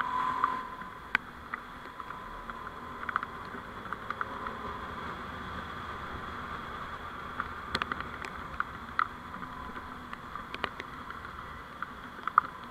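Steady vehicle running noise picked up by a dashcam microphone, with a constant whine and scattered sharp clicks and rattles.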